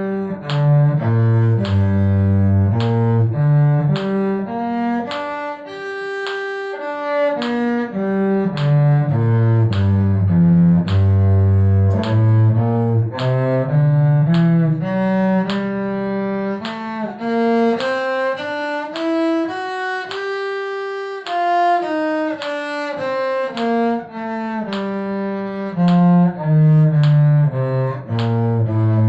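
Cello playing a scale exercise, note by note in even steps. It climbs through two octaves to a top note about twenty seconds in, then comes back down.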